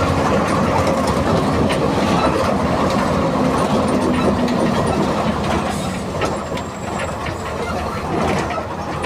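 MWM 6.12 TCE 7.2-litre six-cylinder turbo-intercooled diesel of a VW 17-230 EOD bus running under way, with clicks and rattles over the engine note. The engine eases off a little past halfway.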